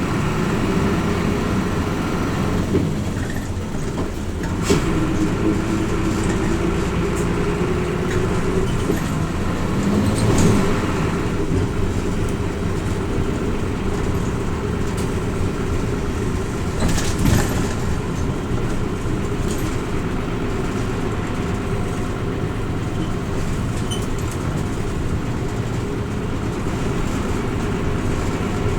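Inside a Hino Rainbow RJ (P-RJ172BA) mid-size city bus under way: the diesel engine and drivetrain run steadily over road and tyre noise. The engine note climbs for a few seconds early on as the bus pulls, and a couple of short knocks from the body come through around a third and two-thirds of the way in.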